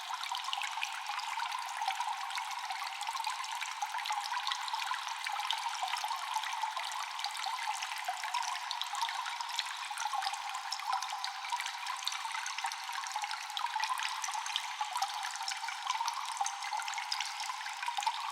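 Cave water dripping and trickling steadily, a dense patter of small drops over a continuous thin, high-pitched wash of running water.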